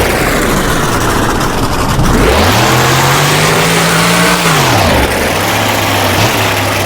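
Monster truck engine revving hard. The pitch climbs about two seconds in and holds high for a couple of seconds, then falls away and settles to a steady lower-pitched run.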